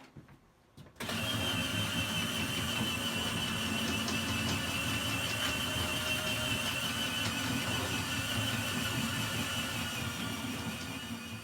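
Two cordless-drill motors driving worm-gear winches run together with a steady high whine, winding in the cables that raise the bed. They start about a second in and wind down near the end.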